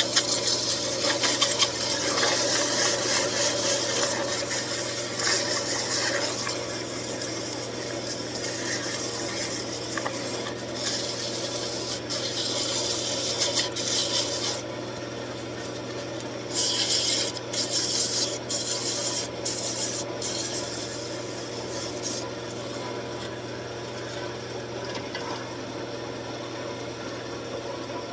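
320-grit sandpaper held against a wooden workpiece spinning on a wood lathe: a steady rasping hiss over the lathe motor's hum. About halfway through the sanding breaks into short touches, and for the last few seconds only the motor is heard running.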